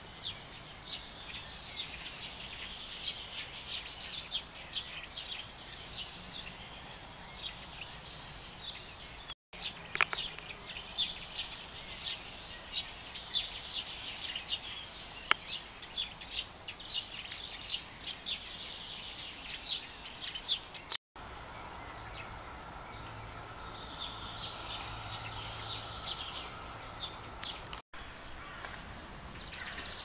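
Birds chirping in quick, short calls, several a second, over steady outdoor background noise; the chirping thins out for the last several seconds.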